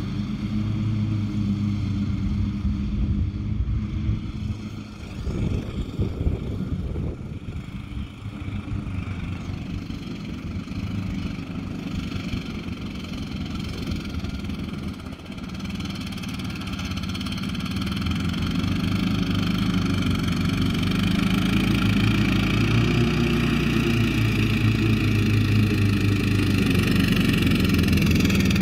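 Riding lawn mower engine running steadily, growing louder through the second half.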